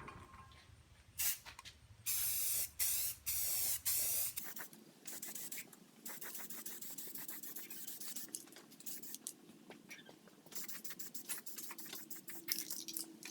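Aerosol spray can of primer spraying in short hissing bursts, the loudest two about two and three seconds in. After that comes a fainter, patchy hiss with light ticks.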